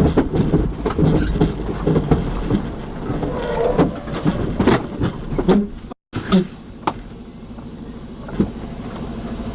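Vehicle noise picked up by a dashcam, with a dense run of knocks and clatter for about six seconds; after a brief break it turns into a quieter steady rumble with a couple of single knocks.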